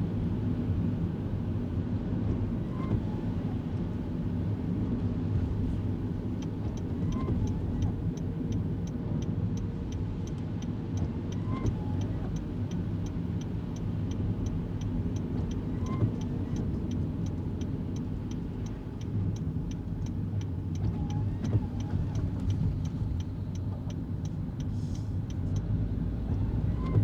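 Kei car driving, heard from inside the cabin: steady engine and road rumble. A faint short chirp comes about every four to five seconds, and from about six seconds in a light, regular ticking runs about twice a second.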